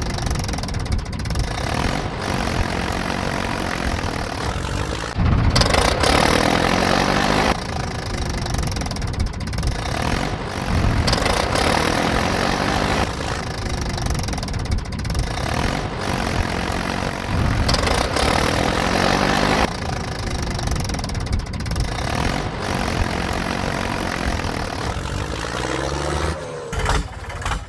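Heavy vehicle engine running, with its pitch swelling and falling again every couple of seconds and several louder revving stretches.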